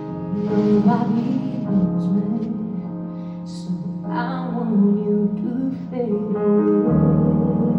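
Live jazz-pop ballad near its close: a woman's voice sings long, wavering phrases with vibrato over sustained keyboard chords.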